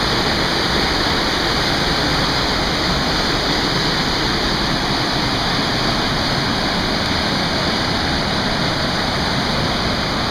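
Waterfall close by, a loud, steady rush of falling water with no break.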